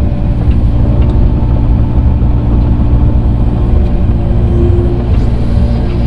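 Engine of a tractor or similar grading machine running steadily, loud and low-pitched.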